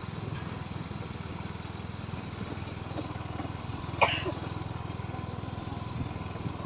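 Vehicle engine running steadily while travelling over a bumpy, rocky road, with one sharp knock about four seconds in.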